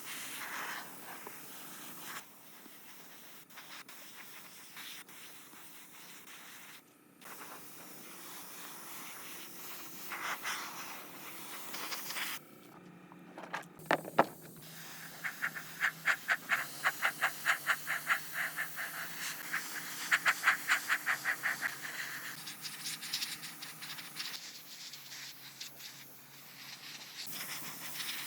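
A run of quick, even back-and-forth scraping strokes, about four a second, through the middle, over a steady hiss.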